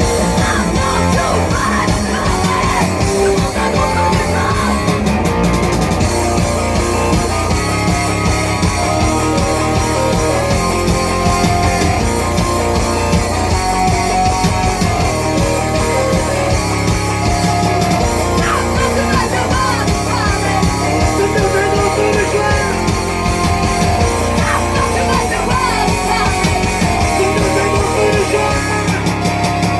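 A rock band playing live, with loud distorted electric guitars, bass and drums, and some shouted vocals.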